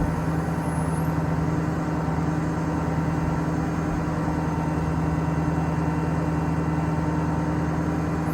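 2008 Ford F550's Power Stroke turbo diesel V8 running steadily at a constant speed, an even low drone.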